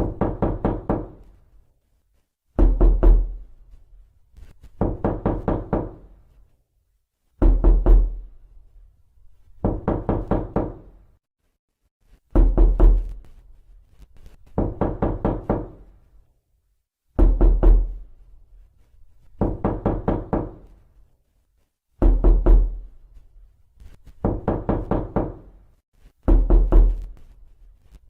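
Knocking on a door in a repeating pattern: quick bursts of four to six knocks, one burst about every two and a half seconds, some bursts opening with a heavier thud.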